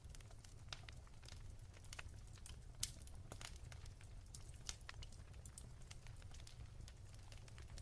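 Wood fire in a fireplace crackling softly: scattered small pops and snaps, with one sharper pop about three seconds in, over a low steady rumble.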